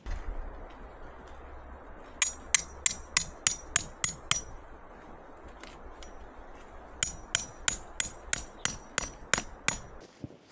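A hammer striking metal with a ringing clang, in two runs of quick, even blows about three a second, over a steady rushing background.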